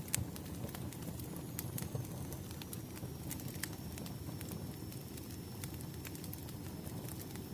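Wood fire burning: a steady low rumble of flames with scattered sharp crackles and pops, and a faint thin high whistle above it.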